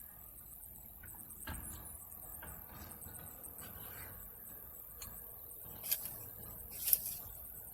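Quiet eating sounds as a breakfast sandwich is chewed, with a few sharp, high clicks near the end.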